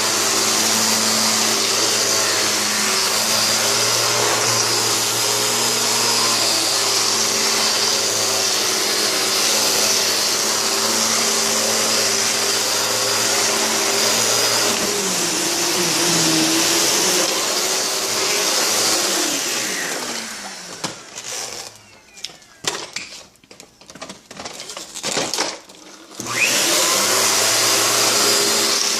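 Kenmore vacuum cleaner running with a steady motor hum, whine and rushing air. About three-quarters of the way through, the motor's pitch slides down and the sound falls away for several seconds, with only scattered knocks. It then starts up again with a quick rising whine.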